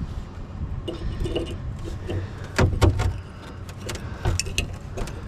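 Metal parts clinking and knocking as scrap is handled and taken apart. The loudest cluster of knocks comes about two and a half seconds in, over a low steady hum.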